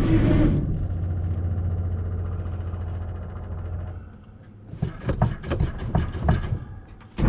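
Gasoline engine of a Ford F-850 truck running loudly. About half a second in it drops to a steady low hum that fades away over the next few seconds. A string of sharp clicks and knocks follows in the second half.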